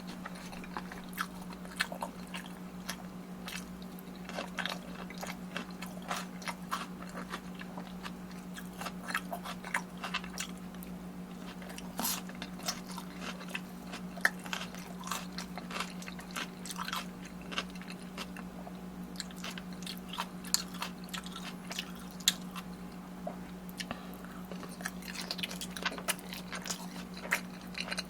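Close-miked eating: biting and chewing with many short crunchy clicks, over a steady low electrical hum.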